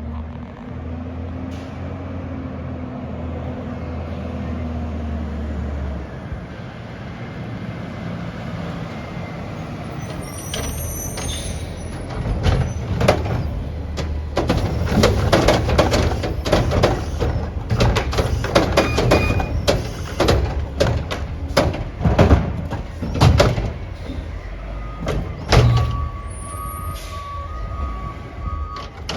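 Garbage truck's diesel engine running, with a short air-brake hiss, then a long run of loud bangs and clatter as a cart of yard waste is dumped into the truck's hopper.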